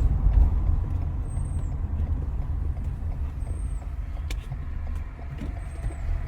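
Car in motion heard from inside the cabin: a steady low rumble of engine and road noise. A faint, short high chirp recurs about every two seconds.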